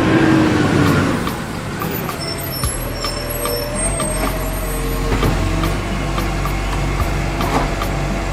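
Cartoon truck engine sound effect: a pitched engine sound glides in the first second, then settles into a steady low hum from about three seconds in, over regular ticks about twice a second.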